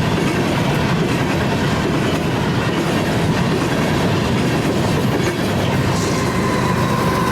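Train rolling past at trackside, a steady loud rumble of railcar wheels clattering over the rails. A thin, steady high whine joins near the end.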